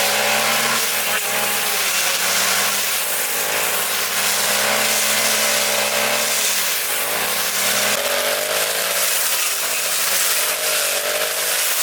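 Lawn mower engine running steadily, its pitch rising and falling slightly as it cuts grass.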